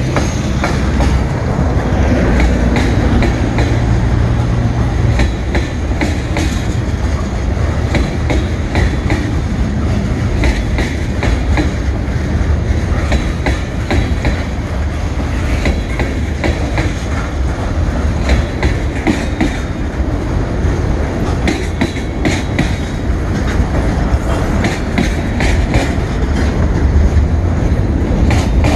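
Freight train cars rolling past close by: a steady rumble of steel wheels on rail, with many clicks as the wheels cross rail joints.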